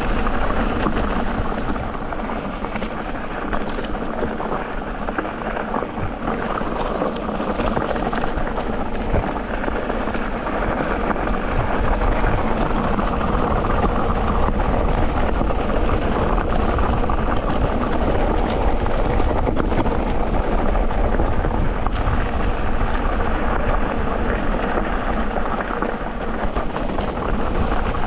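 Electric mountain bike rolling along a dirt trail: continuous tyre and trail rumble with the bike's rattles, steady in level with a few small knocks.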